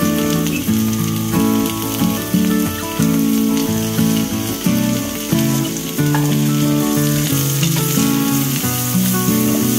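Background music with held notes changing every half second or so, over the steady sizzle of potato chunks frying in butter in a cast iron skillet.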